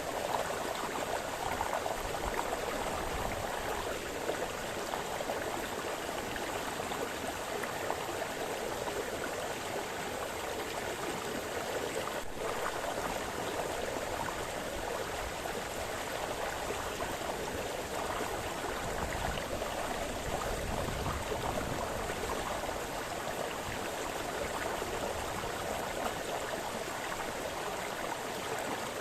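A small forest brook splashing and babbling over stones, a steady, continuous rush of flowing water.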